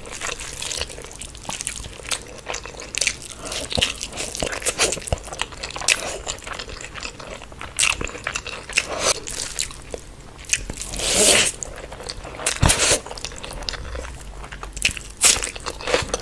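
Close-miked eating of spicy egg omelette curry: steady chewing and biting, with many short crisp clicks and smacks and a louder burst about eleven seconds in.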